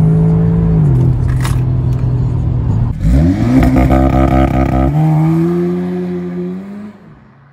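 Audi S3's 2.0-litre turbocharged four-cylinder engine, heard first from inside the cabin at steady revs, then dropping in pitch about a second in as the driver shifts or lifts. Then, heard from outside, the engine revs up quickly and is held high with a rapid stutter, as on launch control. About two seconds later the car pulls away and its exhaust fades into the distance.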